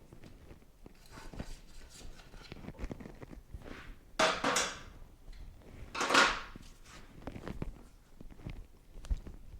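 Metal motorcycle parts and hand tools being handled during disassembly: scattered clicks and light scrapes, with two louder scraping sounds, one about four seconds in and a shorter, sharper one about six seconds in.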